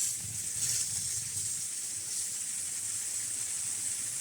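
Steady high hiss of water spraying out of garden irrigation lines fed by a digital water timer, with the system running and watering.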